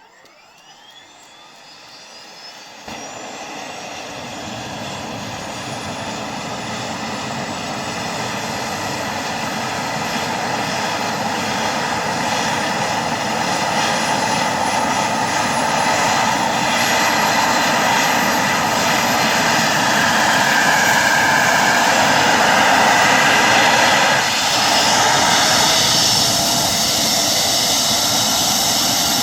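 Airbus EC135 helicopter's turbine engines starting up: a rising whine that grows steadily louder for about twenty seconds as the engines spool up, with a change in the sound about 24 seconds in.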